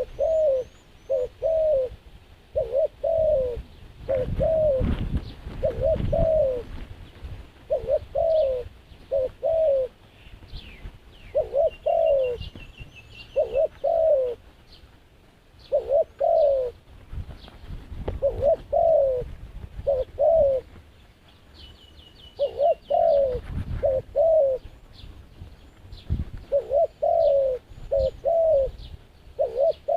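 Doves cooing over and over in short phrases of two or three low notes, with small birds chirping and trilling higher up now and then. There are a few low rumbles along the way.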